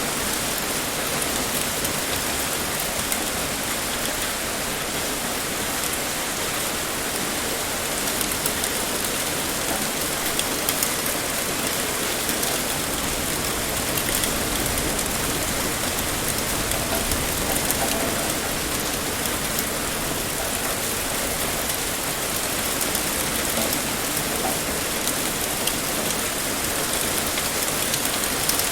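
Heavy rain pouring steadily, a dense even hiss with fine drop patter on surfaces.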